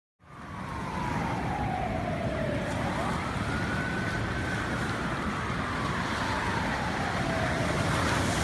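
Emergency vehicle siren in a slow wail, one tone gliding down, sweeping back up, then falling slowly again, over a steady rush of surf and wind noise.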